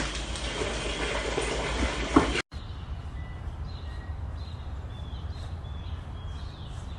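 A couple of sharp knocks in a noisy room, then, after a sudden cut, a low steady hum with short bird chirps and whistles over it.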